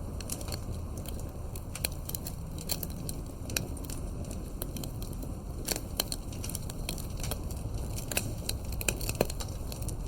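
Wood campfire crackling, with many irregular sharp pops over a steady low rumble; the biggest pops come about six and nine seconds in.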